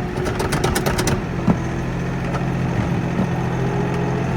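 Kioti NX4510 compact tractor's diesel engine running steadily while plowing snow. A quick run of sharp clicks sounds in the first second, and a single knock comes about a second and a half in.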